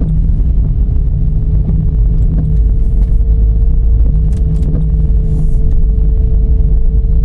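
Dodge Charger driving: a loud, steady low rumble of engine and road noise with a steady hum over it, and a few faint ticks.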